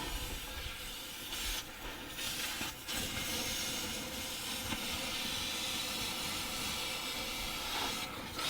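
Steady hissing noise with a faint hum underneath.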